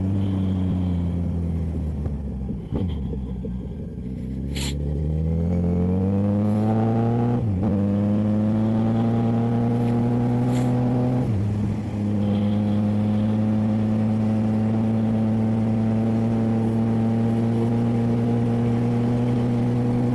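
900 cc motorcycle engine with an aftermarket sport exhaust, heard while riding. It slows, then accelerates with two quick upshifts, and settles into a steady cruise for the rest of the time.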